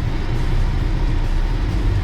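A car driving: a steady low rumble of engine and tyres on the road, with an even hiss over it.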